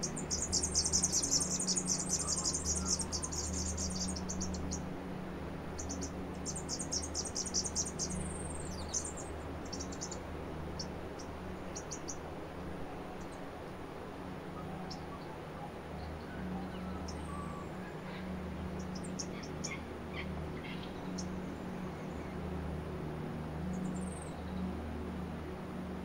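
Small birds chirping in the trees: a rapid, high-pitched chatter in the first few seconds and again about six seconds in, then scattered short chirps and calls. Underneath runs a low, steady drone.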